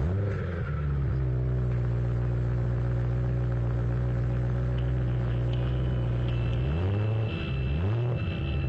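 BMW E92 M3's 4.0-litre V8 through an Eisenmann Inconel exhaust, firing up and settling into a steady, rumbling idle. Near the end the engine speed swings up and back twice in quick succession, like short throttle blips, before it returns to idle.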